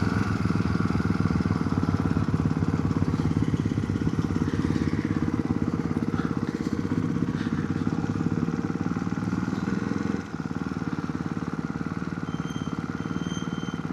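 Motorcycle engine running under way, heard from the rider's helmet. About ten seconds in the engine note drops and quietens.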